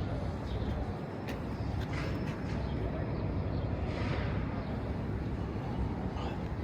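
City street traffic ambience: a steady low rumble of passing vehicles, with a few faint clicks and a brief hiss about four seconds in.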